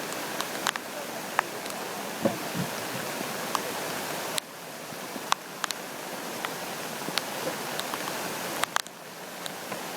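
A river swollen by typhoon rain, rushing steadily, with scattered sharp ticks over the rush and a brief dip in level twice.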